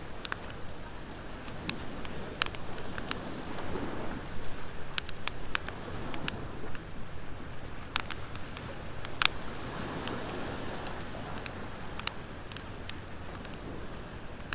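Wood fire crackling, with frequent sharp irregular pops and snaps, over ocean surf that swells and fades twice.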